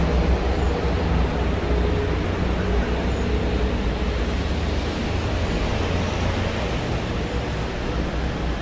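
Steady city traffic noise: a broad wash of passing vehicles with a low engine hum underneath, easing off slightly over the stretch.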